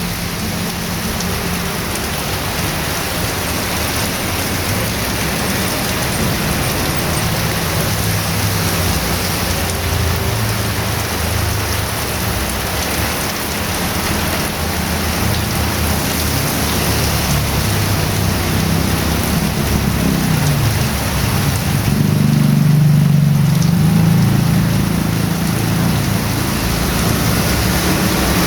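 Heavy rain pouring down steadily, with a low rumble underneath that swells for a few seconds about three quarters of the way in.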